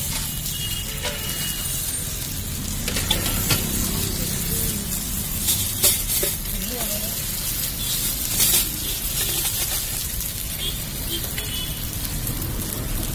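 Rice-and-urad-dal batter sizzling as it fries in the cups of an appe (paniyaram) pan, with sharp clicks of a metal skewer against the pan as the dumplings are turned. The loudest clicks come about six seconds in and again at about eight and a half seconds.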